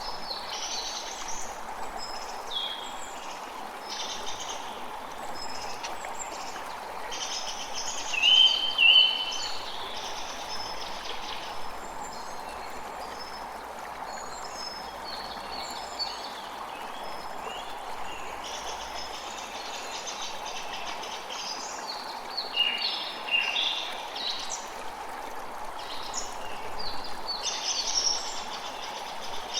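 A creek running steadily with woodland birds chirping and singing over it; a pair of louder calls about eight seconds in and another burst of calls about two-thirds of the way through.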